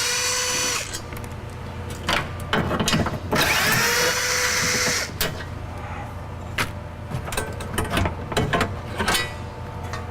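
A cordless power drill runs in two bursts, each winding up and then holding a steady whine for a second or two. After it come scattered sharp clicks and knocks.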